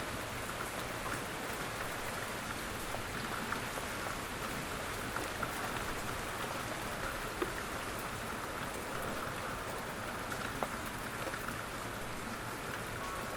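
Steady rain falling, an even hiss with scattered separate drops ticking on a surface.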